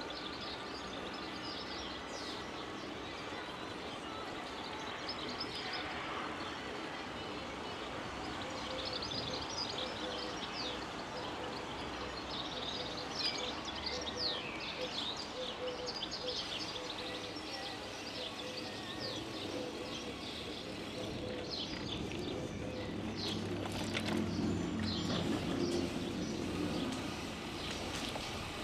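Small birds chirping: many short, quick falling chirps over a steady outdoor noise bed. A low rumble swells between about 23 and 27 seconds in.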